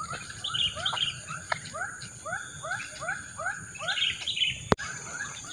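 A bird calling over and over, a short hooked chirp about two to three times a second, with higher chirps mixed in. A steady high insect drone sits underneath, and a single sharp click comes near the end.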